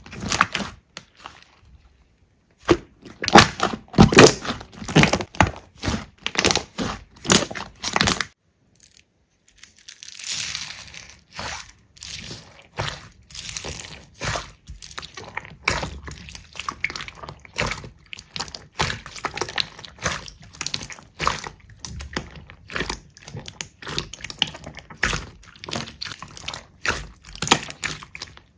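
Hands squeezing and pressing slime, making quick crackling, popping clicks. They stop for a moment about eight seconds in, then start again as a denser, softer crackle.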